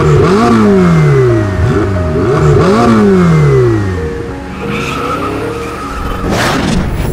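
Sports car engine revving twice, each rev climbing quickly and then falling away over about a second and a half, with background music. A whoosh sweeps through near the end.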